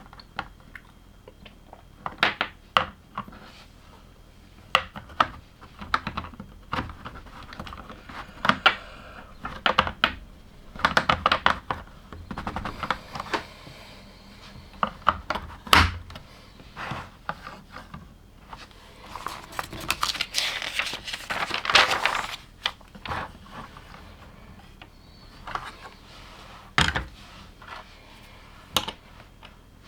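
LEGO plastic bricks being handled and clicked together by hand: irregular sharp clicks and snaps, with a denser spell of rattling and rustling about two-thirds of the way through.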